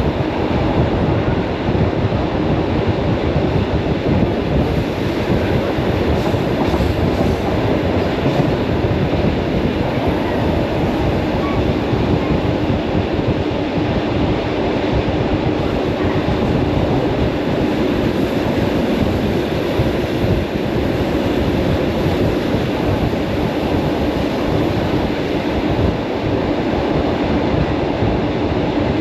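Commuter electric train running along the track, heard from inside the carriage: a loud, steady rumble of wheels on rails with a faint steady hum.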